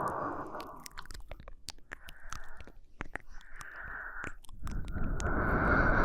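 Close-miked human breathing, slow breaths in and out: one fades out about a second in, two shorter ones follow, and a longer, louder breath starts near the end. Small wet mouth clicks are scattered throughout.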